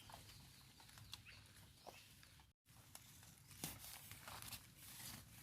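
Near silence: quiet forest ambience with faint rustling and a few small scattered clicks, like footsteps and handling in wet leaf litter.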